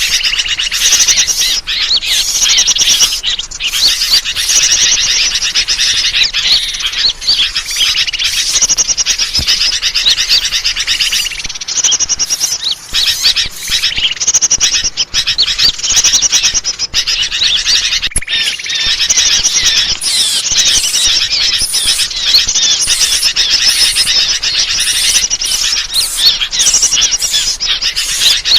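Bird-lure recording: a dense, unbroken chorus of small birds, with rapid high chirps and trills overlapping the whole time.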